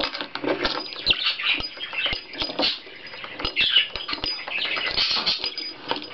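Pet budgie (budgerigar) chattering in short, quick warbles, with many sharp clicks and taps scattered throughout as it plays with a weeble toy on a table.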